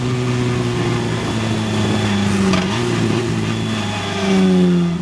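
Formula race car's engine running under way, its pitch shifting in steps as the gears change.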